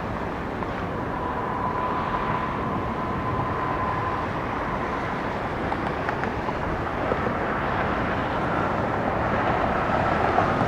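Jet airliner engines running: a steady rumble with a faint high whine that comes and goes, growing slowly louder.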